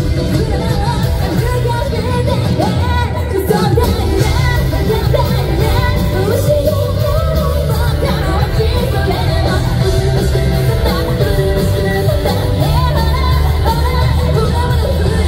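Live rock band performance: a female lead singer over electric guitar, bass, drums and keyboard, played loud and steady and recorded from the audience.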